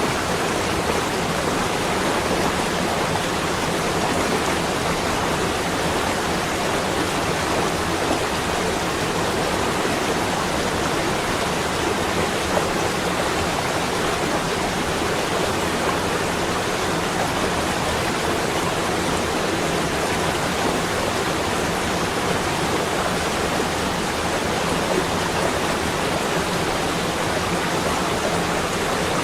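Steady, even rushing noise of a snowy winter ambience, with no separate drops, gusts or other events.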